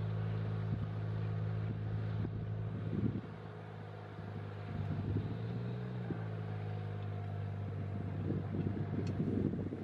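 Steady low engine hum, as of a motor running nearby, dipping briefly about three seconds in.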